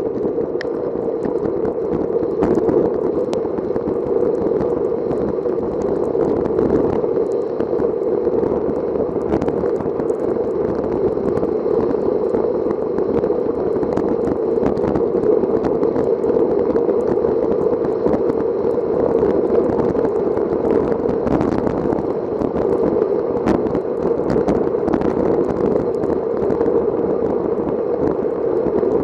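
Steady rushing noise of a bicycle ride on a wet road: wind on the microphone and tyre noise, with scattered small clicks and ticks.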